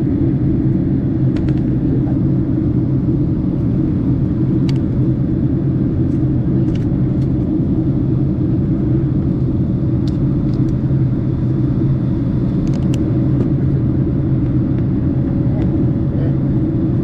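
Steady low rumble of a Boeing 767's engines and airflow heard inside the passenger cabin in flight.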